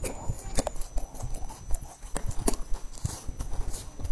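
Close-up crunchy chewing and biting of a crispy puffed-rice bar: irregular sharp crunches, several a second, with a loud one about half a second in and another about two and a half seconds in.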